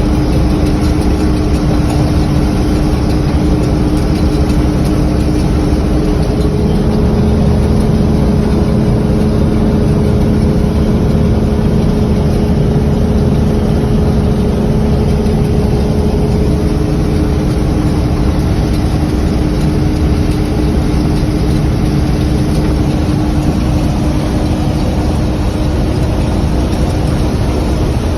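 Tractor engine running steadily at constant speed, driving the grain auger through the PTO. Steady hum tones in the drone shift a little about 7 and 17 seconds in.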